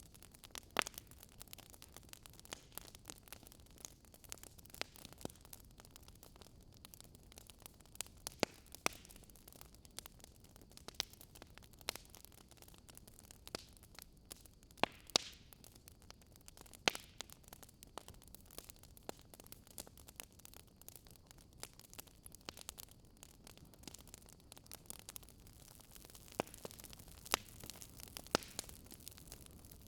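Wood fire in a fireplace crackling: irregular sharp pops and snaps over a faint steady hiss.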